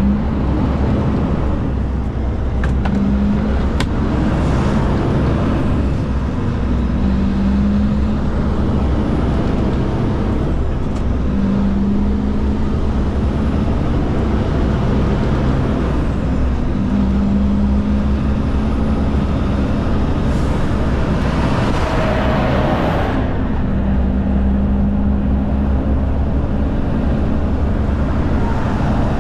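Kenworth K200 cabover's Cummins diesel engine running under way, heard from inside the cab over steady road and tyre noise, its hum shifting in pitch every few seconds. A brief louder rush comes about three-quarters of the way through.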